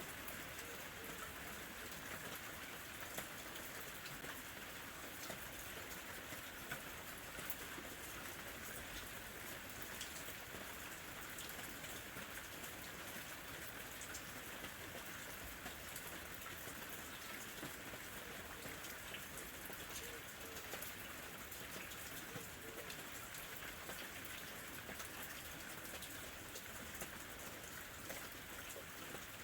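Gentle summer rain falling steadily, a soft even hiss dotted with many small drop ticks.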